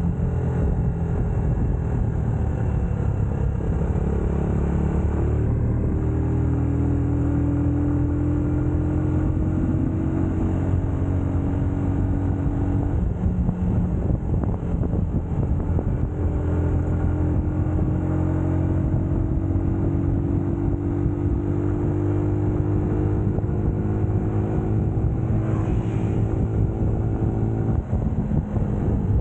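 UM Scrambler X motorcycle engine running under way, its pitch climbing slowly as it pulls, dropping about halfway through, then climbing again.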